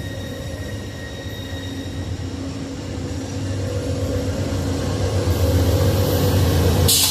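Locomotive engine running with a steady low hum that slowly grows louder, as if the train is drawing closer. Near the end a sudden loud hiss of air cuts in.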